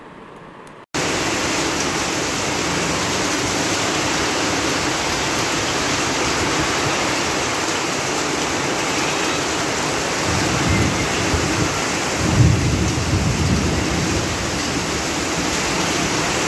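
Heavy rain pouring down, a loud steady hiss that cuts in suddenly about a second in. A low rumble swells under it for a few seconds past the middle.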